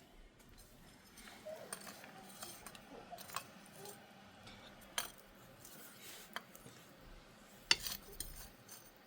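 Scattered light clinks and knocks of kitchenware being handled, the loudest one a little before the end.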